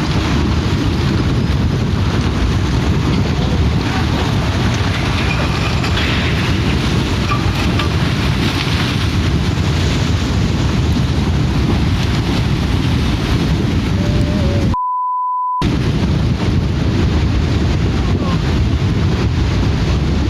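Loud, steady rushing storm noise of wind and water, with heavy wind rumble on the microphone. About 15 s in, the sound is cut out for under a second and replaced by a single steady beep, a censor bleep over a word.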